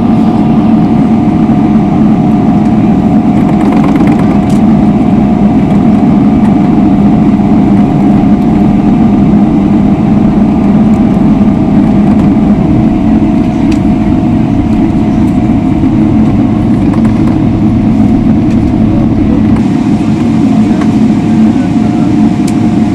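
Boeing 777-300ER's GE90 turbofan engines at taxi power, heard from inside the cabin as a steady loud rumble with a constant hum. The aircraft is taxiing to the gate after landing.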